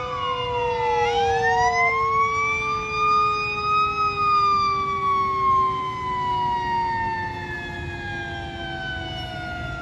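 Fire truck siren wailing: one long rise that peaks about four seconds in, then a slow fall. A second, lower steady siren tone drifts slowly down in pitch underneath, over the low rumble of the vehicles. It all gets a little quieter near the end.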